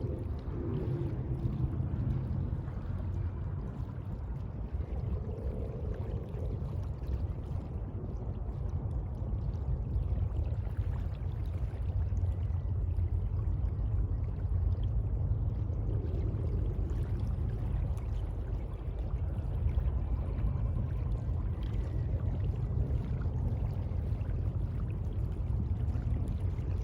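Sea water washing and sloshing steadily, with a deep low rumble underneath and no distinct breaking-wave peaks.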